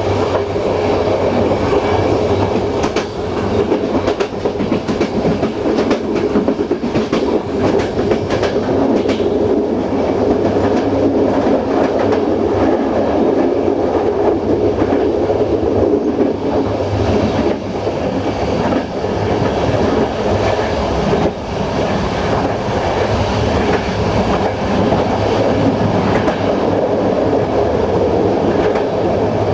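Passenger train running at speed: a steady rumble with the wheels clacking over rail joints and through station points.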